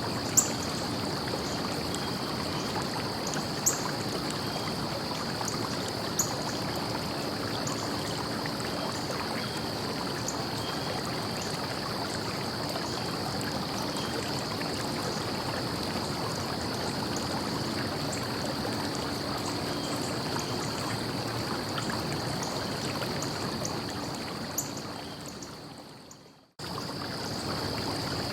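A stream of water flowing and trickling steadily, with a few faint sharp ticks. Near the end it fades out to silence and then cuts straight back in.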